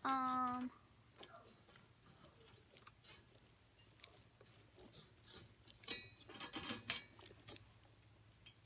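A short, steady-pitched vocal hum or call right at the start, then faint scattered clicks and rustles of hands and a stick working at a trap, with another brief vocal sound about six seconds in.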